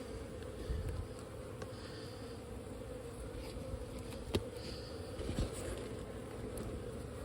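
Many honeybees from a disturbed colony buzzing steadily. A sharp click comes about four seconds in, and a dull knock follows a second later.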